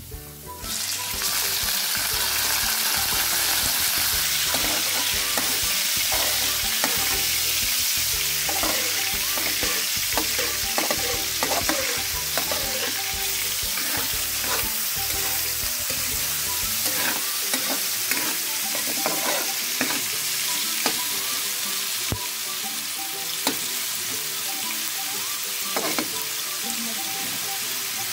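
Small pieces of pork slid into hot oil in a wok with fried garlic and onion set off a loud sizzle about a second in. It keeps going as a metal spatula scrapes and taps against the wok while the pork is stirred.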